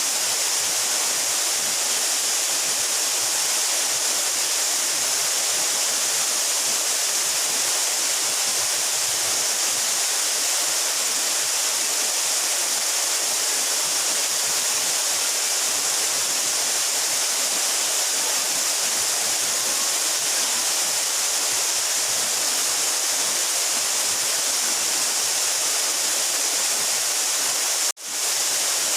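Steady rush of a 12-metre mountain waterfall, a constant hiss of falling water with no let-up, briefly cutting out for an instant near the end.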